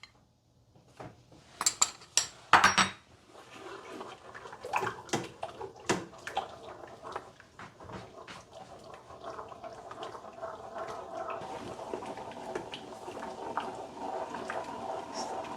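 A few clinks of a spoon against the pot about two seconds in, then sweet and sour chili sauce bubbling and crackling in a pot on the stove as it comes to a boil, slowly getting louder.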